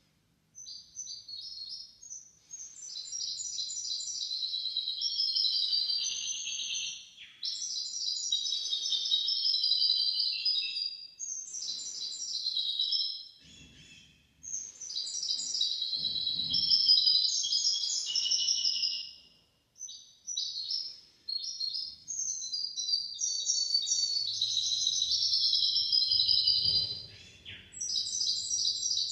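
Hybrid finch singing long, fast, twittering high-pitched phrases in about half a dozen runs separated by short pauses. This is a tutor song used to teach goldfinches and canaries to sing.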